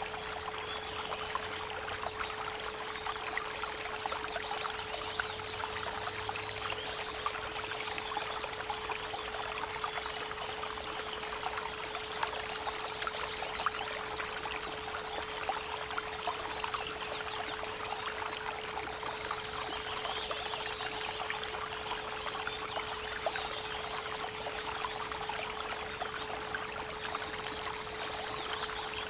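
Creek water running steadily, with a steady 432 Hz pure tone layered underneath. Short high bird trills come in now and then, about a third of the way in and again near the end.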